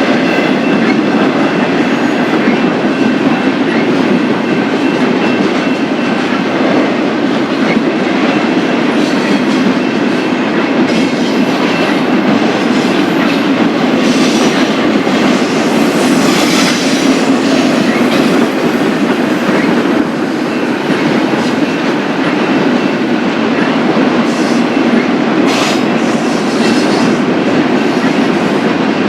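Cars of a BNSF freight train rolling past with steady wheel-on-rail noise, with a few brief higher flares about halfway through and near the end.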